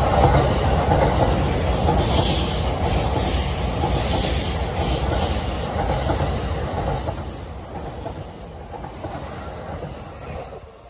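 JR E657 series electric multiple unit running past along the platform: steady rolling noise of steel wheels on rail, dying away over the last few seconds as the train moves off.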